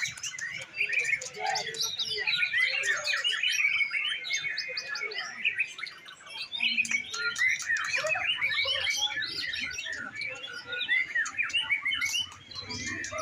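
Many caged songbirds singing at once in a dense, continuous chorus of rapid chirps and trills, as at a songbird singing contest.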